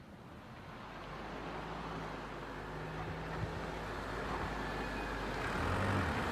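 The song's intro fading in: a rising wash of hiss-like noise with faint, held low notes underneath, growing steadily louder.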